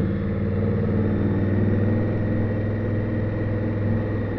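Indian Scout motorcycle's V-twin engine running steadily, heard from the rider's position.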